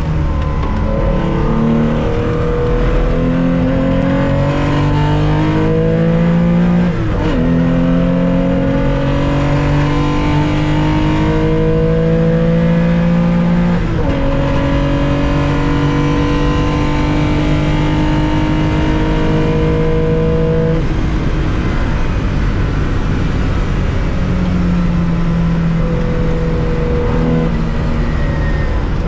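1965 Porsche 911 2.0's air-cooled flat-six heard from the cockpit under hard acceleration: long rising climbs in pitch, broken by upshifts about seven and fourteen seconds in. About twenty-one seconds in the driver lifts off and the engine drops to a lower, steadier note.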